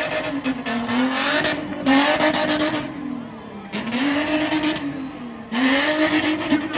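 A spinning car's engine held high in the revs, its pitch swinging up and down, with the tyres screeching in repeated bursts of about a second each.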